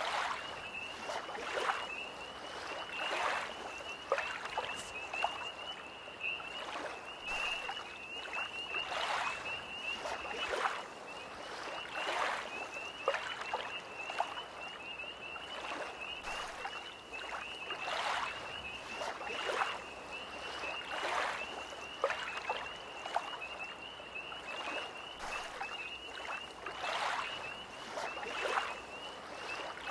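Small lake waves lapping and splashing against the shore every second or two, under a steady high-pitched, rapidly pulsing trill of tree frogs.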